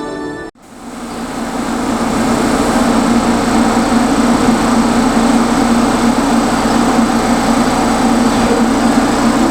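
Train noise: a steady rumble with a thin high whine. It starts about half a second in, swells over the next few seconds, then holds steady.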